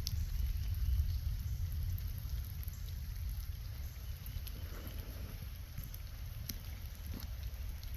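Rain falling, with scattered drop ticks over a heavy low rumble of wind buffeting the microphone.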